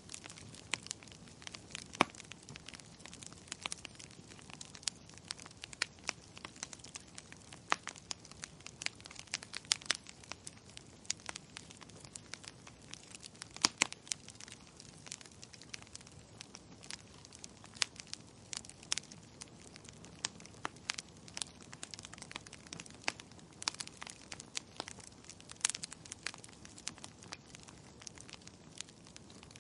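Wood fire burning, crackling with frequent irregular sharp pops and snaps over a low hiss.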